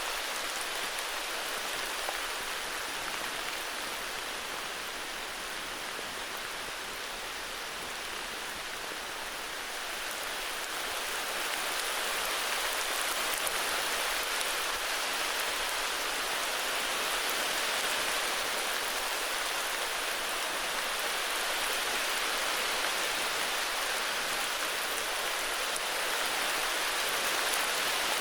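Heavy rain falling steadily, an even hiss of drops, swelling slightly partway through.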